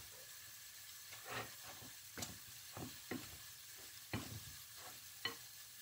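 Chopped onion, garlic and a piece of ham frying gently in oil in a pot: a faint sizzle with scattered crackles and pops.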